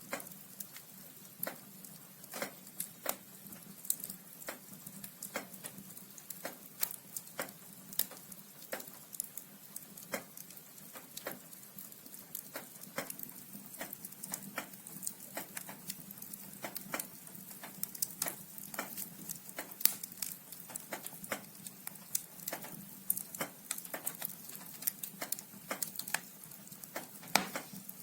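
Wood fire burning in a fireplace: burning logs crackling with irregular sharp pops over a soft hiss, a few pops louder than the rest.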